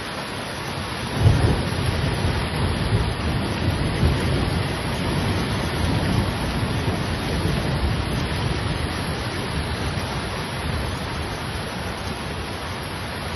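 Steady heavy rain with a rolling thunder rumble that breaks in about a second in and slowly fades away.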